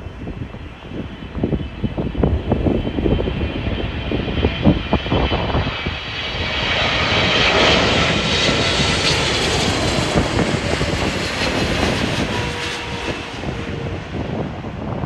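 Gusts of wind buffeting the microphone, then a jet airliner on approach passing close: its engine noise with a high whine swells from about six seconds in, peaks a couple of seconds later, and slowly fades.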